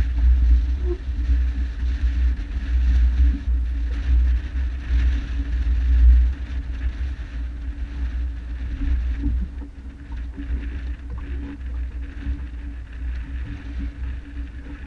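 Honda F-12X AquaTrax jet ski's turbocharged four-stroke engine running steadily on the water, with heavy wind buffeting on the microphone; a little louder in the first six seconds, then easing.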